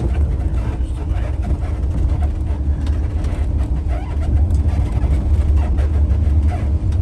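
Steady low engine and road rumble inside a moving coach bus, with a faint steady hum above it.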